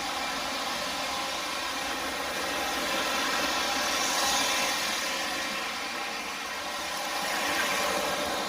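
Two MTH Premier O-scale three-rail diesel locomotive sets running at full speed around the track: a steady rush of wheels and motors on the rails, getting louder about four seconds in and again near the end as the trains pass closer.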